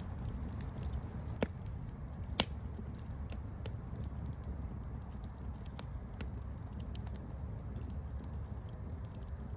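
Campfire burning with a steady low rumble and scattered sharp crackles and pops, two louder snaps about a second and a half and two and a half seconds in.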